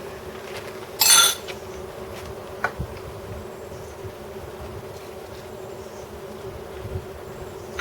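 A steady buzzing hum at one pitch, with a brief loud scraping noise about a second in and a light click shortly after.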